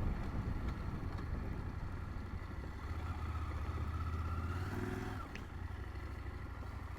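KTM 890 Adventure's parallel-twin engine running steadily at low revs, swelling slightly for a couple of seconds in the middle.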